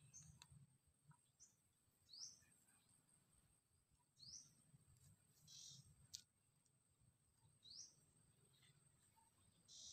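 Faint bird chirps: about three short, quick rising calls spread through, with a steady faint high-pitched whine underneath.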